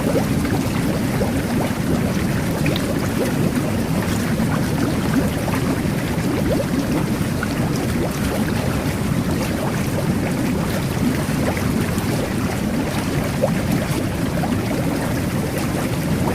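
Jet bath running: water churning and bubbling steadily, with many small bubble pops over a low rush.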